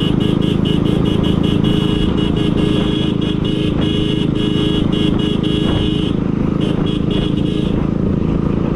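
Royal Enfield Bullet's single-cylinder engine running steadily under way. A high, rapidly fluttering tone sits over it and drops out for a moment about six seconds in.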